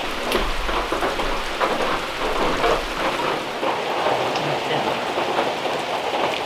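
Steady rain falling, an even hiss with a few light clicks, and a low rumble through the first three seconds.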